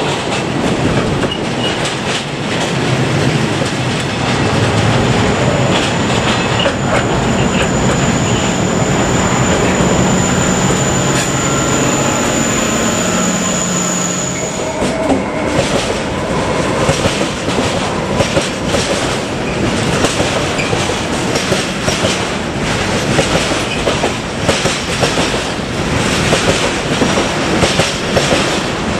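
Freight train of tank wagons rolling past with wheel noise, a steady low diesel engine drone from a Vossloh G 1206 diesel-hydraulic locomotive, and a high steady wheel squeal that stops about 14 seconds in. After that an intermodal freight train of pocket wagons loaded with semi-trailers passes, its wheels clattering in rapid clicks over the rail joints.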